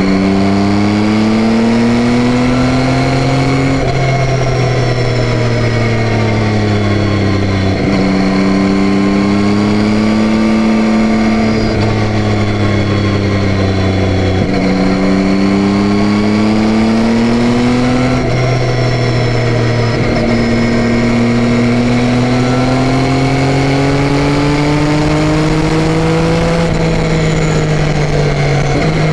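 Yamaha Tracer 9's 890 cc three-cylinder engine under way, its pitch climbing again and again and dropping suddenly about five times as the bike accelerates and shifts up through the gears.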